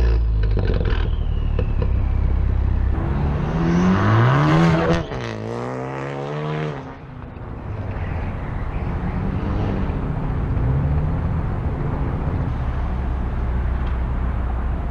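2015 Ford Focus ST's turbocharged 2.0-litre four-cylinder engine running through a modified exhaust. The pitch climbs about three to four seconds in, drops sharply around five seconds, and then runs steadier.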